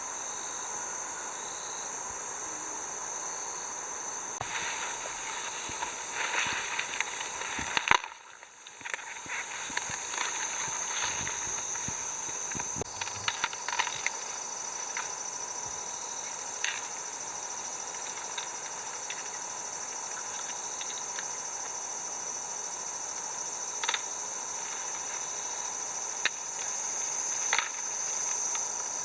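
Steady high-pitched drone of a summer insect chorus, with scattered short clicks and snaps on top. There is a brief break about eight seconds in.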